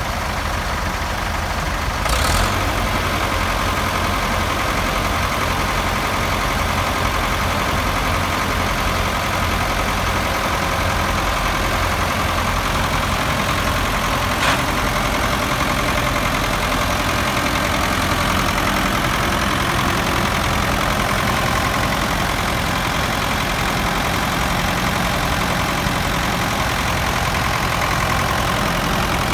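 Ford 5000 tractor engine idling steadily, with a brief louder burst about two seconds in and a single sharp click about halfway through.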